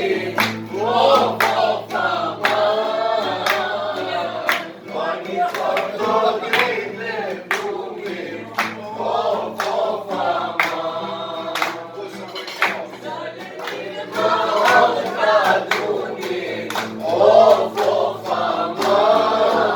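Several voices singing together, with sharp hand claps keeping a steady beat throughout.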